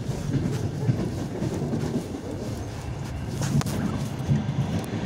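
Regional passenger train running, heard from inside the carriage: a steady low rumble with a few scattered knocks.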